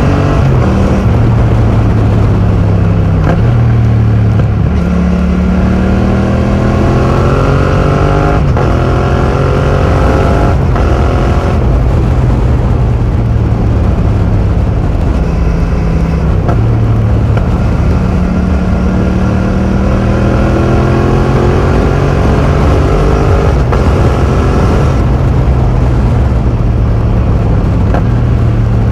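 2020 Yamaha MT-07's 689 cc parallel-twin engine running through an Akrapovic full titanium exhaust with the dB killer removed, being ridden hard. The exhaust note climbs in pitch under throttle and drops sharply several times, with steadier stretches between the climbs.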